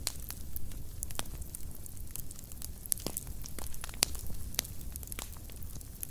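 Fireplace fire crackling: irregular sharp pops and snaps over a steady low rumble of the flames, with the sharpest pop about four seconds in.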